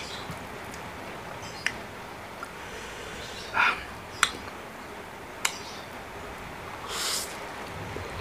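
Close-up eating sounds of a person having very spicy noodles: a few sharp mouth or utensil clicks, a short slurp about three and a half seconds in, and a hissing breath near the end, the sort drawn in against chilli heat.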